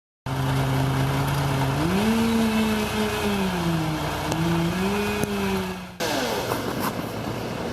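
An engine running steadily, then speeding up about two seconds in and wavering up and down in pitch as if under changing load. Near six seconds it breaks off abruptly into a rougher, noisier engine sound with a brief falling whine.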